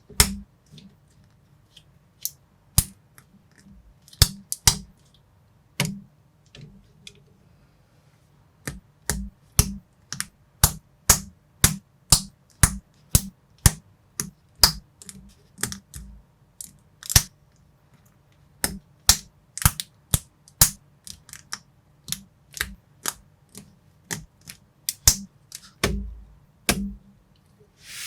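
Plastic building bricks being snapped and pressed together by hand: sharp separate clicks, a few at first and then about two a second from about eight seconds in.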